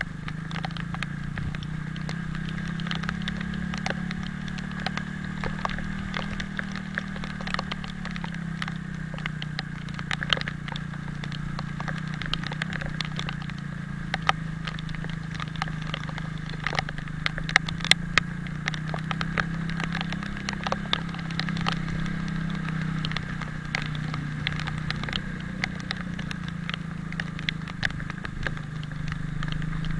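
Italika 250Z motorcycle engine running at a steady, slightly varying pace while riding in rain, with a constant hiss of rain and many irregular sharp ticks of raindrops.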